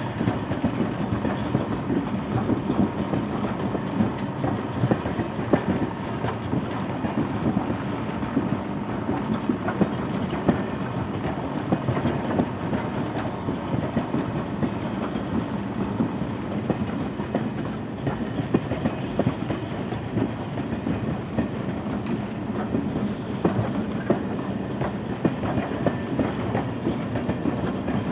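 Freight train of empty stake-sided timber wagons rolling past. Steady wheel rumble with a continuous, irregular clatter of wheels clacking over rail joints.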